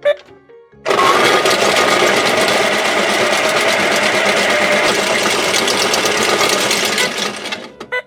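Pink toy washing machine running its spin cycle: a loud, steady whirring starts just under a second in, lasts about seven seconds and cuts off near the end.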